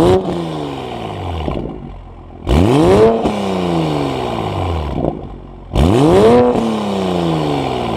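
A vehicle engine revved hard three times, each rev climbing quickly in pitch and then falling away slowly as the revs drop back.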